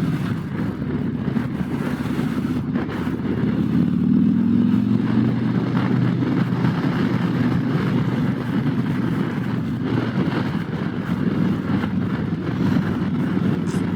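Harley-Davidson Road Glide's V-twin engine running steadily under way, with a brief swell in the engine note about four seconds in.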